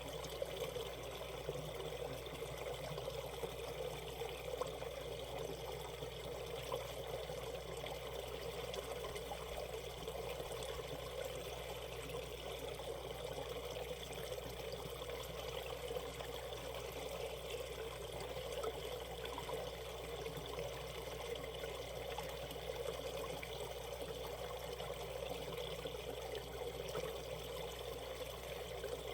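Stream water flowing steadily over the stones of a shallow rapid, a continuous rushing trickle.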